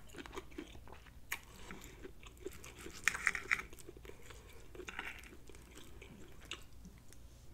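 A person chewing with wet mouth sounds while a steel knife and fork cut a thick pork chop on a plate, giving scattered light clicks and a few short scrapes of cutlery.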